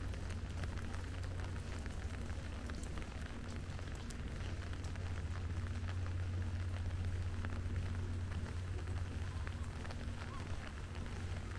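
Steady rain falling, with many scattered sharp drips and ticks of drops landing close by, over a constant low hum.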